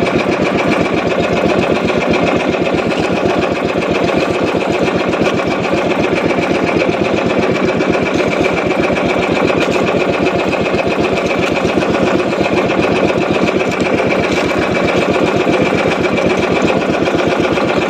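A small fishing boat's engine running steadily at trolling speed, with a fast, even beat.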